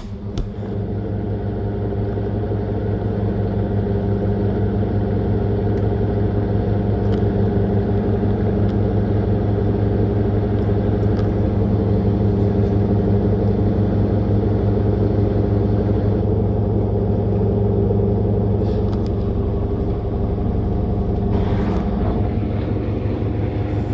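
Living & Co 5.5 kg top-loading washing machine running near the end of its cycle, its motor humming steadily and evenly.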